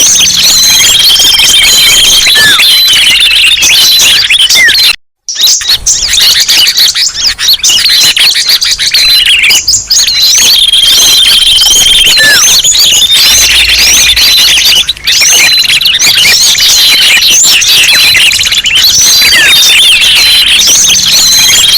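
A loud, dense chorus of many small songbirds chirping and twittering over one another, a bird-luring call recording. The sound cuts out completely for a moment about five seconds in, then resumes.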